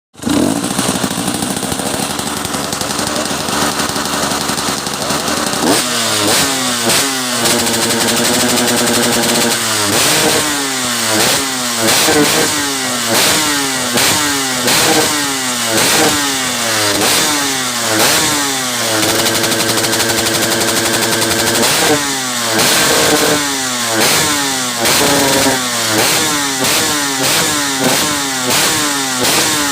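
Two-stroke motorcycle engine revved hard on the throttle. It is blipped up and down over and over, roughly one to two revs a second, and held high for about two seconds twice, around eight and twenty seconds in.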